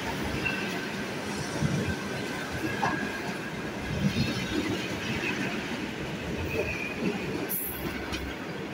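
Suburban electric multiple-unit train running past close by, its wheels rumbling and clattering over the rails with a faint squeal now and then. A brief sharp hiss comes near the end.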